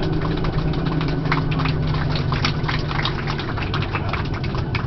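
Steady low rumble of a Boeing 737-800 rolling on the ground after landing, heard inside the cabin, with many irregular light clicks and rattles over it.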